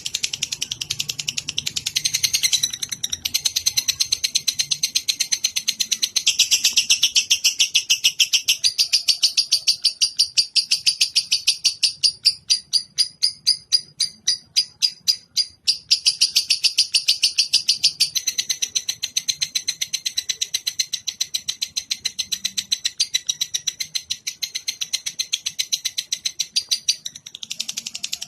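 Lovebird singing a long, unbroken rapid chatter (ngekek), many notes a second. About halfway through it slows for a few seconds into separate, evenly spaced notes, then picks up to full speed again, with a brief break near the end.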